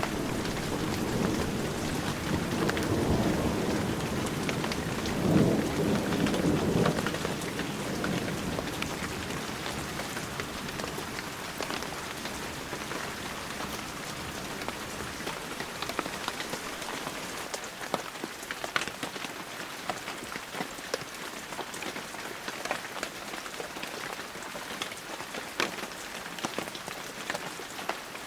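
Heavy rain falling steadily, with a low roll of thunder rumbling through the first several seconds, loudest about five seconds in, then dying away. After that the rain goes on alone, with scattered sharper drops standing out.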